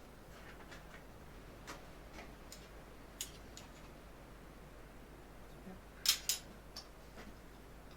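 Scattered light clicks and taps of small tools or parts being handled on a workbench, with two sharper clicks close together about six seconds in.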